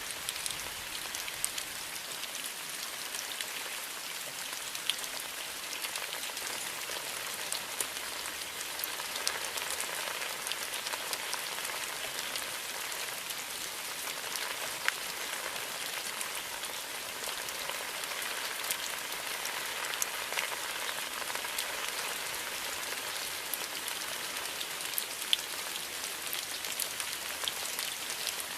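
Steady rain falling, an even hiss dotted with many sharp ticks of individual drops landing close by.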